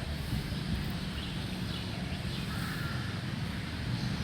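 Birds chirping faintly a few times over a steady low rumble.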